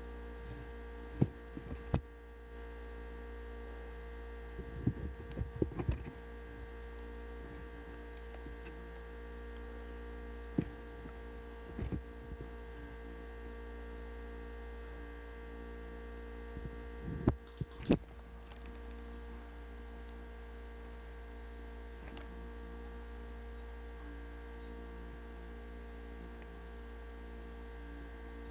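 Steady electrical hum with fixed tones throughout, broken by scattered sharp clicks and knocks, with a louder cluster of them a little past halfway.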